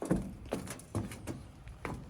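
A series of about five irregular knocks and clunks, unevenly spaced.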